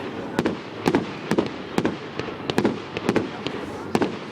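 Fireworks going off in a rapid run of sharp bangs, about two a second, with a rumble between them.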